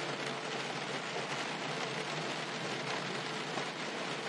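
Steady rain on a car roof, a soft patter with scattered sharper drop ticks.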